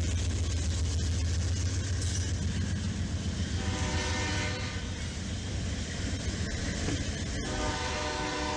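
Union Pacific diesel locomotives passing close, their engines running with a deep steady drone. About three and a half seconds in, a train horn starts sounding a held chord, breaks off briefly near the end, then sounds again.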